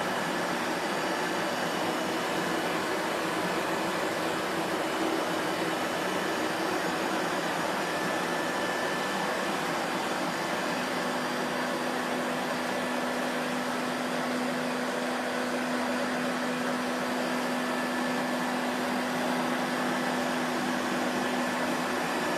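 Vacuum cleaner running steadily: a constant rush of air with a steady hum underneath, unchanging in level.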